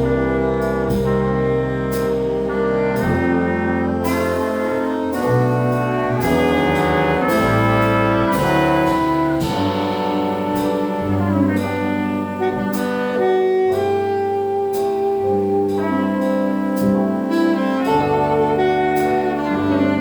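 A jazz octet plays a West Coast cool-jazz arrangement: alto, tenor and baritone saxophones, trumpet and trombone over piano, double bass and drums. The whole ensemble comes back in at once right at the start, after a brief dip.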